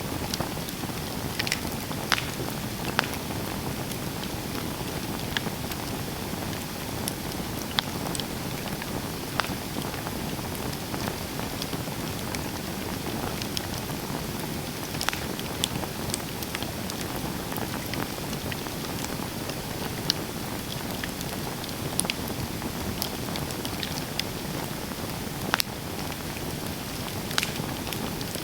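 Campfire burning: a steady hiss of the flames with sharp crackles and pops at irregular moments, about one every second or two.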